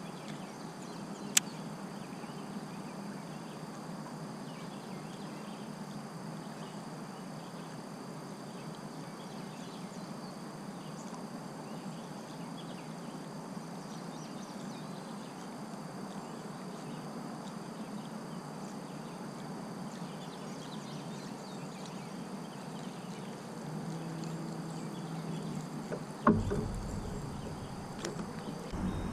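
Steady outdoor background noise heard from a kayak on a lake, with a sharp click about a second and a half in and a heavier knock near the end, typical of gear or a paddle bumping the hull.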